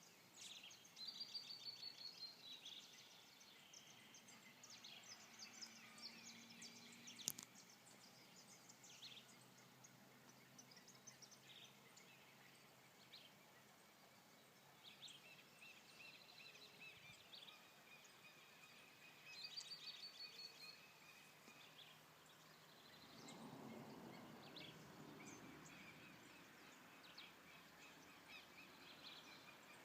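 Faint chorus of several songbirds chirping and calling, with a fast falling trill near the start and again about two-thirds of the way through. A sharp click comes about seven seconds in, and a low rumble rises and fades a little later.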